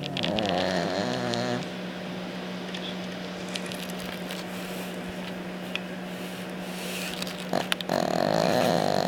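Sleeping dog snoring: two snores, one in the first second and a half and another about eight seconds in. A steady low hum runs underneath.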